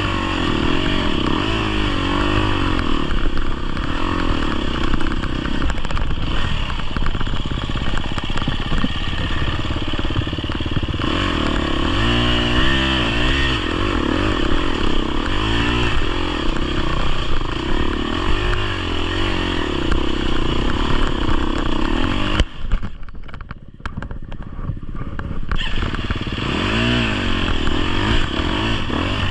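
Dirt bike's 250cc four-stroke single running while being ridden, its revs rising and falling as the throttle opens and closes, with a clatter from the chassis. About 23 s in the engine drops off almost to nothing for a couple of seconds, then comes back up.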